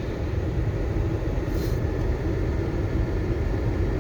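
Dually pickup truck's engine running steadily under load in four-wheel-drive low, towing a frozen-in vehicle free through snow.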